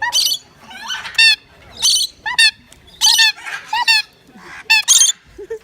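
Parrots in a large aviary squawking loudly and repeatedly: about ten harsh calls, roughly one every half second to second.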